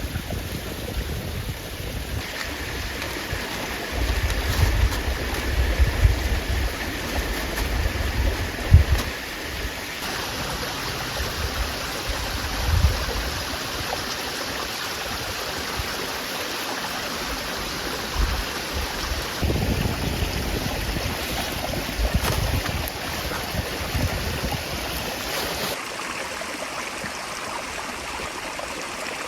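Steady rushing outdoor noise, with low rumbling gusts of wind buffeting the microphone at times. The character of the noise changes abruptly several times.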